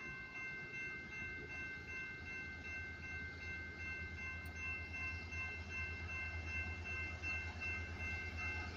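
Norfolk Southern diesel locomotives working hard upgrade: a low, even throbbing with a steady high-pitched whine of several tones held above it, growing louder as the train approaches.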